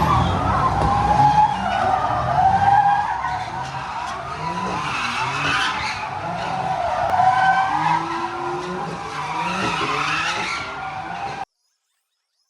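A car doing donuts: tyres squealing in long, wavering screeches over an engine revving up and down again and again. The sound cuts off abruptly about a second before the end, leaving dead silence.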